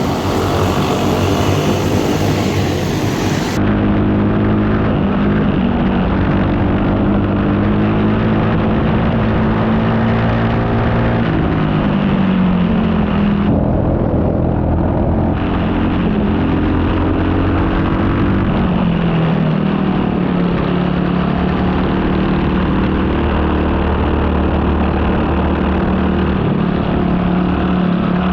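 Four-stroke racing kart engine running hard through a lap, its pitch holding steady and dropping twice as it slows for corners before climbing again.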